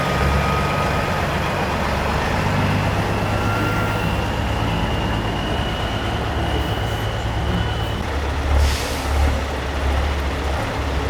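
Diesel engines of custom Peterbilt semi trucks running with a deep, steady drone as the rigs roll past slowly. About three quarters of the way through there is a short hiss of air.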